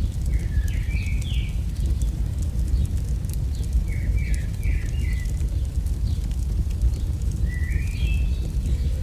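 AI-generated campfire sound: a steady low rumble with many small crackles and pops. A bird chirps in three short bursts of quick stepped notes, near the start, about four seconds in and near the end.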